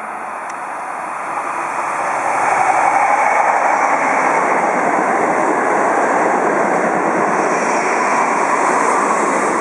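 Odakyu Line electric train running, a noisy rumble that builds over the first two or three seconds and then holds steady.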